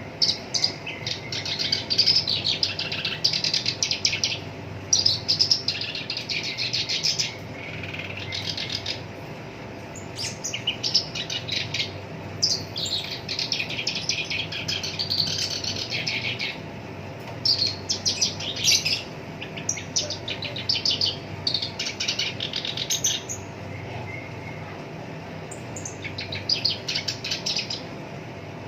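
Black-browed reed warbler singing: rapid, harsh, chattering phrases of one to two seconds, separated by short pauses.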